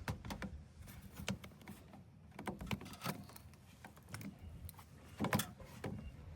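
Scattered clicks, knocks and rustling of hands handling a plastic air filter and its housing, with one louder knock near the end.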